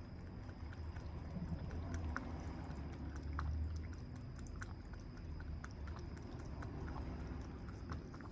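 Kitten chewing: soft, irregular small clicks and smacks over a low steady rumble.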